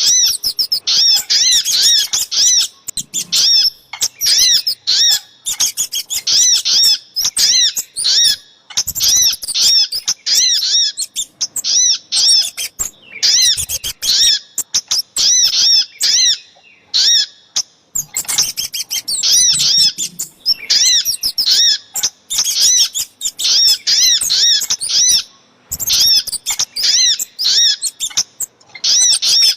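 Small songbirds' lure calls, sogok ontong mixed with kemade: fast strings of high, arched chirps repeated over and over in bursts of a few seconds, with short pauses between.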